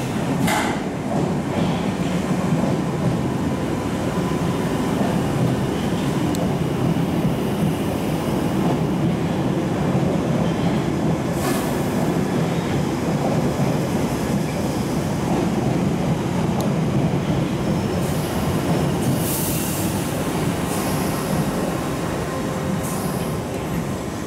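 Piccadilly line 1973-stock tube train running past along the platform: a steady rumble of wheels on rail, with brief high wheel squeals near the start, about twelve seconds in and again around twenty seconds in.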